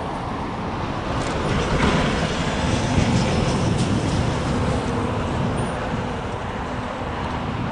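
Steady rumble of a double-stack freight train's cars rolling on the rails, swelling a little a couple of seconds in and then easing off.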